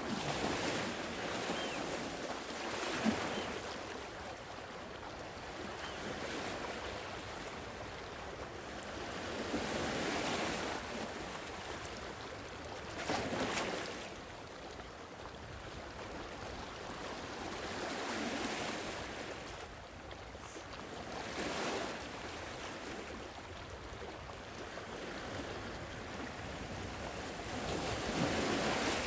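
Sea waves breaking and washing up a shore, swelling and ebbing in a new surge every few seconds.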